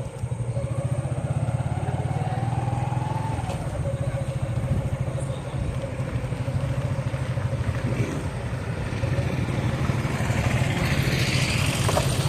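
Motorcycle engine running steadily with a low, throbbing exhaust note, as heard while riding. A rush of hiss builds near the end.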